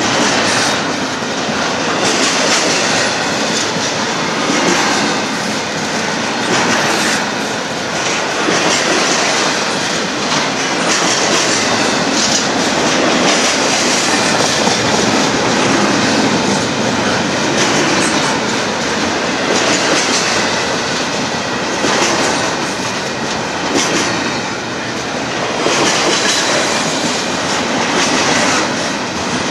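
Freight cars of a Union Pacific container train rolling past, wheels clattering over rail joints with a steady rumble and some wheel squeal.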